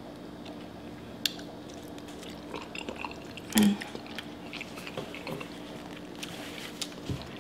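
Close-miked chewing of saucy pasta: wet mouth smacks and small clicks, with a brief louder mouth sound about three and a half seconds in. A faint steady low hum lies underneath.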